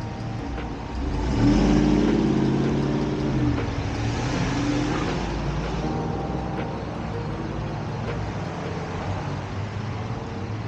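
Jeep engines in a parking lot: one accelerates with a climbing note about a second in and runs loud for a couple of seconds. Another vehicle then passes with tyre and engine noise, and engines keep running at a lower level.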